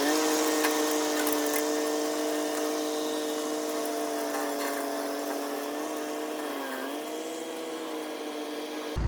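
A machine's steady, pitched whine that dips briefly in pitch near seven seconds and slowly fades, cut off abruptly near the end by a louder low rumble.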